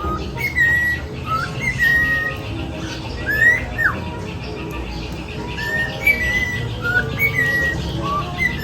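Pet cockatiels whistling and chirping: a string of short whistled notes, several sliding up or down in pitch, with a sharp rising-then-falling call about three and a half seconds in.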